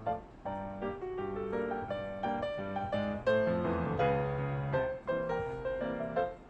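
Background piano music, a melody of struck notes over chords.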